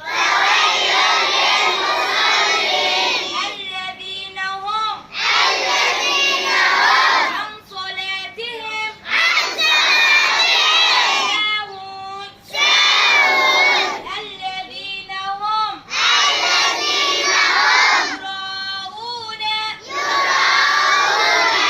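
Call and response: a single lead voice chants a short line, and a group of children answers it loudly in unison. This happens about six times.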